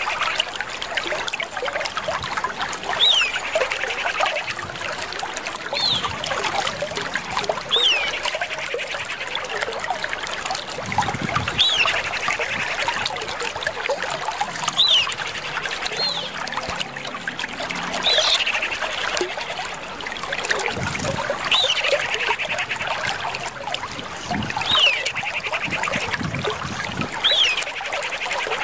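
Common iora calling: a short downward-slurred whistle repeated about every three seconds, each followed by a buzzy trill, over a steady background hiss.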